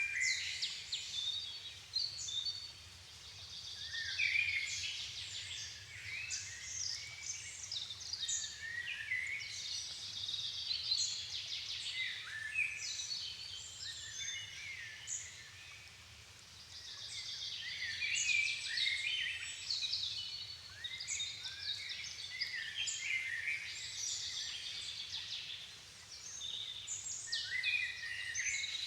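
Dusk chorus of many songbirds singing at once, dense overlapping warbles and chirps that thin out briefly a few times.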